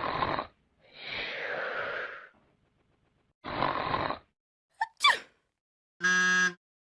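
A string of short meme sound effects separated by silences: a brief noisy burst, a longer swelling noise, a second noisy burst, a couple of quick sweeps, and a short steady buzzer-like tone near the end.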